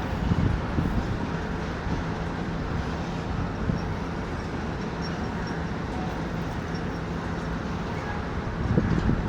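Train running on the tracks: a steady rumble with a low droning hum, and a few heavier knocks near the start and again near the end.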